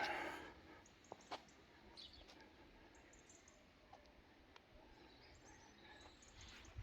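Quiet outdoor stillness with faint, scattered bird chirps and a couple of small clicks.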